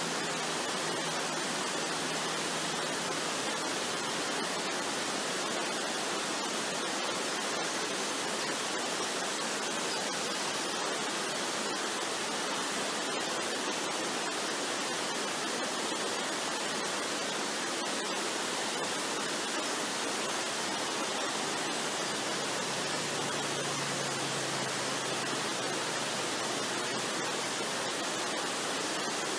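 Waterfall's steady rushing water, an even, unbroken hiss-like noise.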